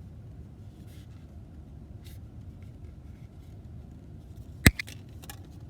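Small handling clicks and taps, with one sharp click about three-quarters of the way through, over a low steady hum.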